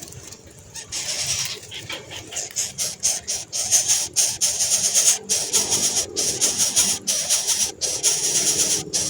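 Nestlings begging for food: a dense chorus of high, shrill, rapid calls that starts about a second in and grows louder, pulsing with brief breaks.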